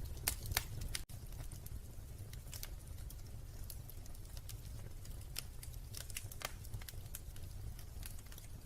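Wood fire crackling in a fireplace: irregular sharp pops and snaps over a steady low rumble of the burning fire, with two louder pops in the first second. The sound cuts out for an instant about a second in.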